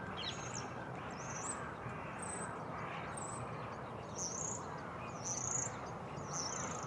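Great spotted woodpecker giving short, sharp high calls, repeated about once a second, over steady background noise.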